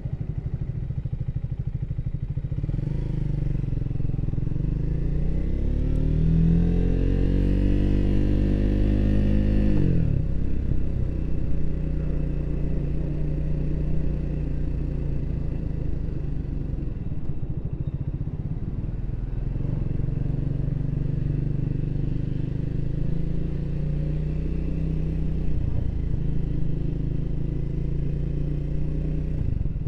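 Triumph Speed 400's single-cylinder engine pulling under throttle, rising in pitch for several seconds, then dropping suddenly about ten seconds in as the throttle closes. It then runs steadily at cruising speed with a small rise and fall later on.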